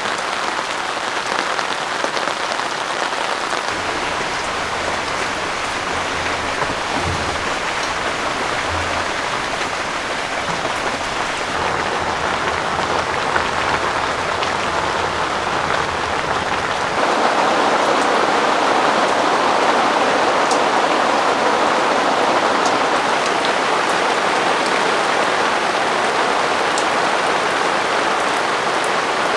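Heavy rain pouring steadily without a break, turning louder and fuller about seventeen seconds in.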